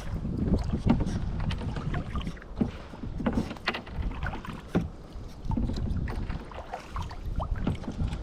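Kayak paddle splashing in lake water, with irregular short splashes and drips, over a low wind rumble on the microphone.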